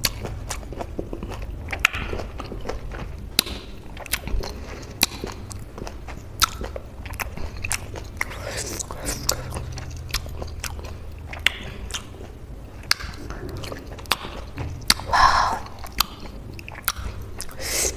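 Close-miked chewing of juicy citrus fruit: wet mouth smacks and many short sharp clicks over a steady low hum.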